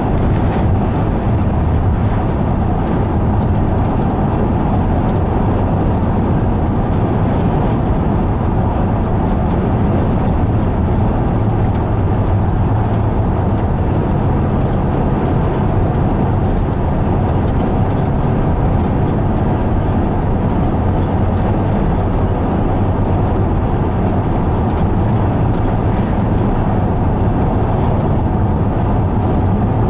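A vehicle driving at steady speed: continuous engine and tyre drone with a low hum, unchanging throughout.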